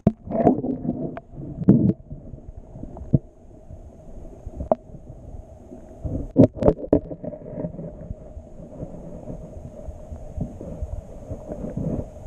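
Irregular knocks and thumps of gear being handled in a kayak while a hooked bass is played, over a low rumble of wind on the microphone; the sharpest knocks come in a cluster about six and a half seconds in.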